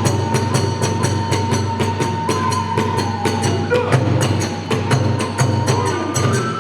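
Kagura music: drum and hand cymbals beat a quick, even rhythm while a bamboo flute holds a long note that steps upward near the end.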